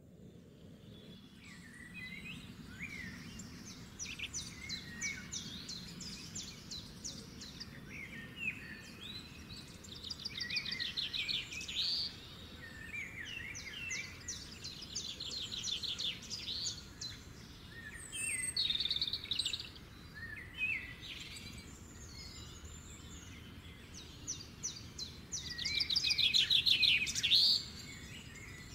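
Wild songbirds singing: bouts of rapid trilled notes and short chirps a few seconds apart, the loudest trill near the end, over a steady low background noise.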